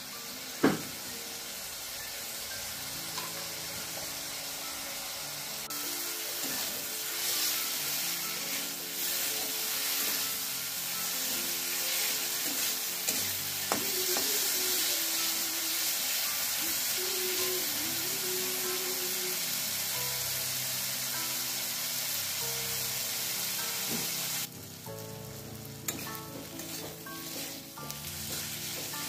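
Food frying in hot oil in a pan, with a steady sizzle. A sharp knock comes about a second in. The sizzle drops suddenly near the end.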